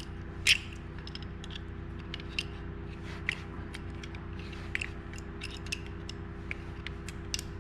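Irregular small metal clicks and ticks from a wrench working the bolts of a bevelled bearing separator as it is forced under a part of a Stihl MS250 chainsaw, over a steady low hum.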